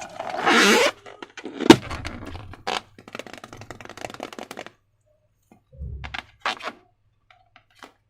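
Slime and balloon handling noises: irregular wet crackles and scrapes, the loudest a sharp crack with a low thump about two seconds in, then a few short squishes near the end.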